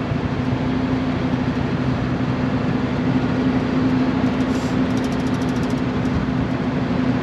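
Valmet tractor engine running steadily with a constant low hum, driving a Tokvam tractor-mounted snow blower.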